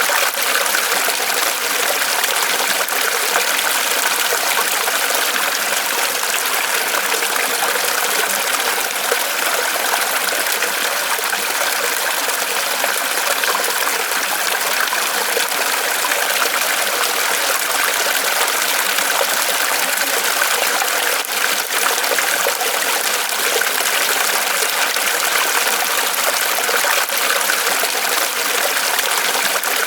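Small waterfall of water trickling and splashing steadily from a tree trunk.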